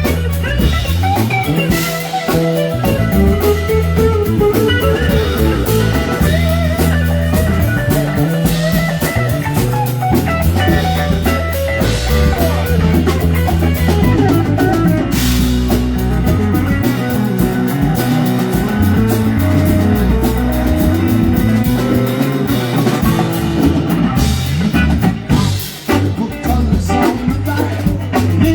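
Live band playing an instrumental passage: electric guitar over bass and a drum kit, with no singing.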